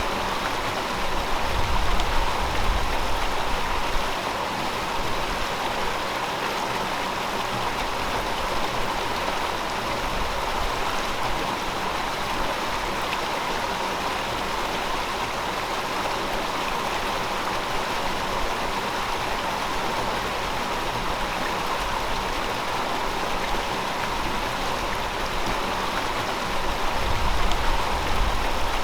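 River water flowing over rocks, a steady rushing babble with a low rumble that swells briefly a couple of seconds in and again near the end.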